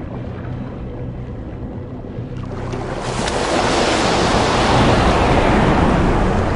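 Ocean surf rushing, building up from about two and a half seconds in and loudest near the end, over background music with held notes.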